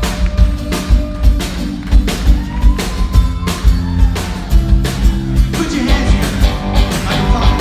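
A rock band playing live, with a steady kick-drum beat under sustained guitar chords and a melody line.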